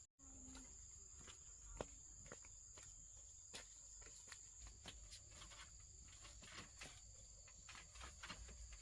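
Faint, steady high-pitched insect trilling from crickets, with scattered light clicks and knocks.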